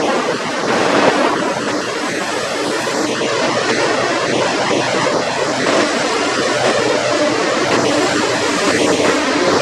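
Heavy diesel semi-truck engine running, a steady low hum that grows clearer about halfway through, over a constant broad rushing noise.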